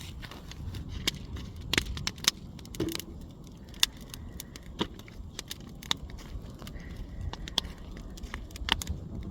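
Garden bonfire crackling, with sharp irregular pops and snaps.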